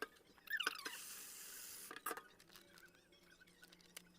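Faint wet handling of baby clothes being put to soak in a basin of soapy water: a few short squeaky chirps and small splashes, then a brief hiss about a second in, settling to faint clicks.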